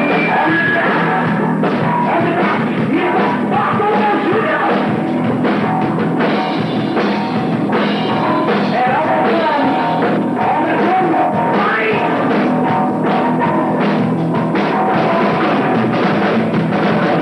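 Heavy metal band playing live in rehearsal: drum kit and amplified instruments with singing, loud and continuous, in a lo-fi bootleg recording.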